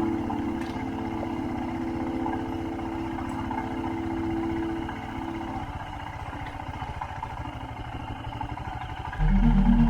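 Royal Enfield Himalayan's single-cylinder engine running steadily with a fast, even low pulse. Music notes fade out over it about halfway through, and new music starts abruptly near the end.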